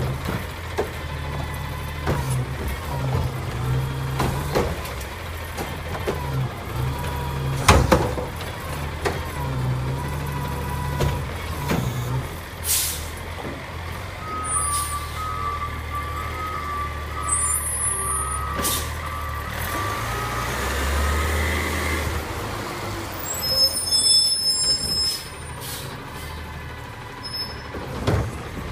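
Recycling garbage truck's diesel engine running, with sharp clanks and knocks; the loudest comes about eight seconds in. Its reversing alarm beeps repeatedly for several seconds around the middle, and the engine drops lower near the end.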